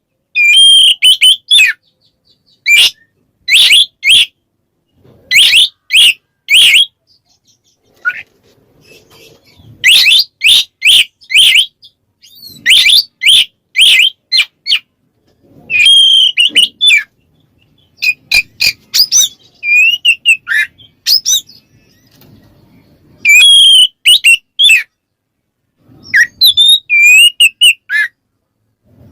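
Oriental magpie-robin (kacer) singing loudly in the 'ngeplong' style: short phrases of sharp, clear whistled notes, repeated with brief pauses between them. It is a song that calls out rival males.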